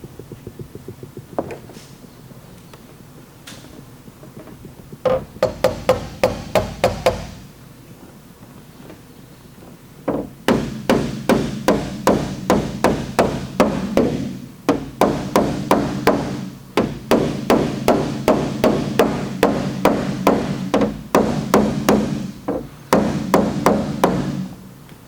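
Hammer tapping on the sheet-metal liftgate panel in long runs of quick blows, about three a second, with a low ring under them. The blows knock down high spots and crowns while the dent is held out under tension from a glued pull tab.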